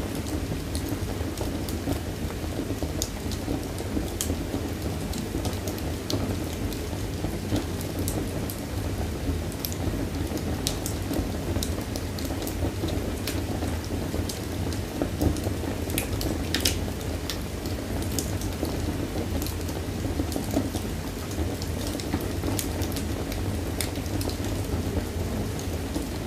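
Wood fire burning in a fireplace: a steady low rush of flames with frequent crackles and a few louder pops.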